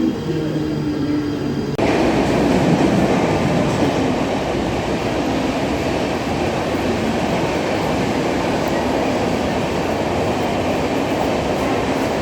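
Train running along the track: a steady, loud rumble and rattle of wheels on rails. It starts abruptly about two seconds in, after a short stretch of steady humming tones.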